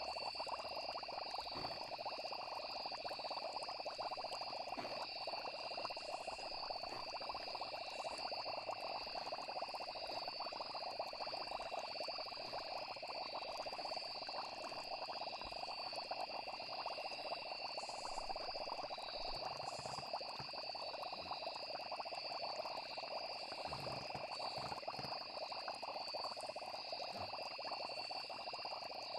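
Steady night chorus of frogs and insects, unbroken and even, with high continuous trilling over a dense mid-pitched croaking texture.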